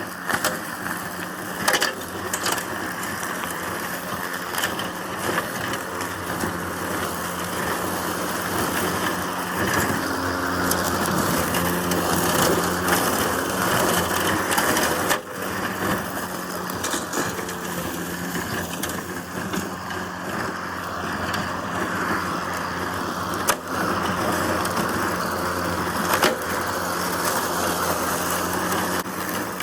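Mowrator S1 battery-powered remote-controlled mower driving with its blade spinning through rough grass: a steady whir and hum, with a few sharp knocks along the way.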